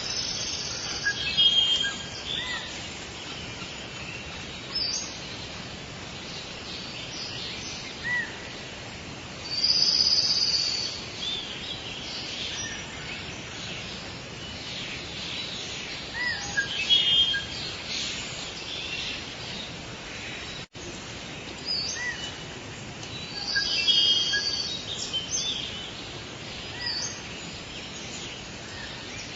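Forest birds calling and chirping over a steady background hiss of natural ambience, with louder bursts of calls about every seven seconds. A brief drop-out cuts the sound about 21 seconds in.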